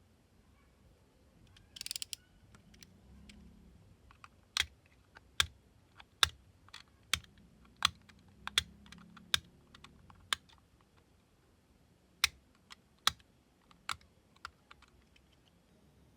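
A brief scraping rustle about two seconds in, then about a dozen sharp, irregularly spaced clicks spread over the next ten seconds.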